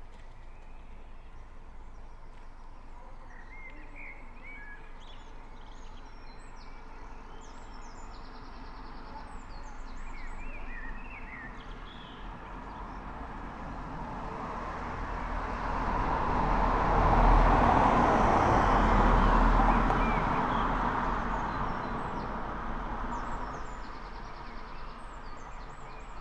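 A single road vehicle passing along the street, its tyre and engine noise swelling to a peak a little past the middle and fading away again, while small birds chirp in short bursts throughout.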